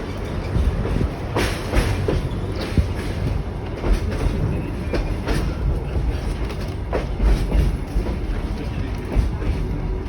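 Passenger train running along the track: a steady low rumble with irregular clicks and knocks from the wheels and carriages.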